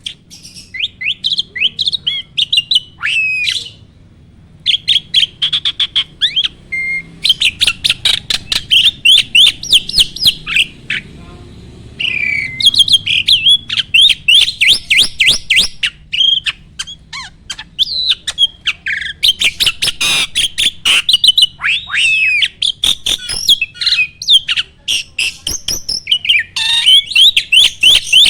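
A jalak (starling/myna) singing: fast, varied runs of sharp chattering notes and sweeping whistles, in long phrases broken by short pauses.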